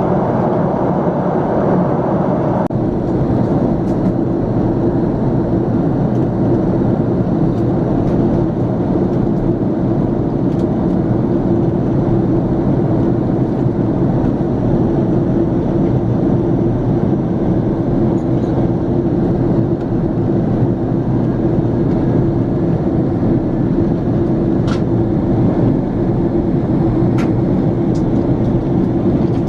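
Cabin noise inside a Boeing 767-400ER airliner in flight: a steady rush of engine and airflow noise with a low, even hum, easing slightly in the upper range about three seconds in. A couple of faint ticks come near the end.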